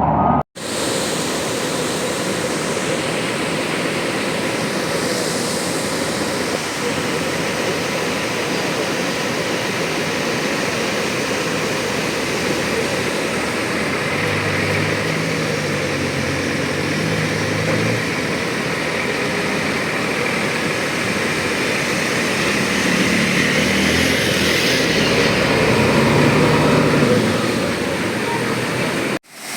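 Steady rushing of a flooded river or torrent, with a low motor engine hum coming through twice, in the middle and later on.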